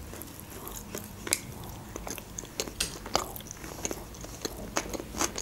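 Close-miked chewing of a mouthful of sushi roll: irregular wet clicks and smacks of the mouth.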